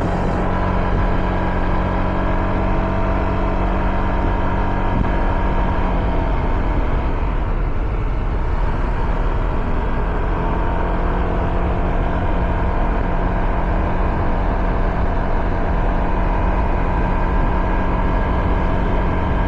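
Motorcycle engine running at a steady cruising speed on the road, with low wind rumble on the microphone. The engine note wavers and blurs for a few seconds around the middle, then settles back to a steady pitch.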